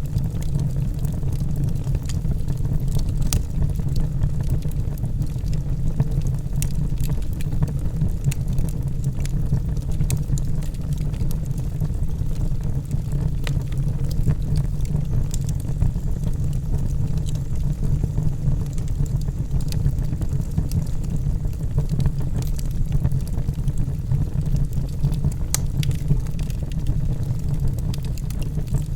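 Wood logs burning in a fireplace: a steady low rumble of flames with scattered sharp crackles and pops.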